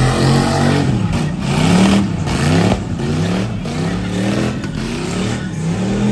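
A vehicle's engine revving again and again, its pitch climbing with each rev.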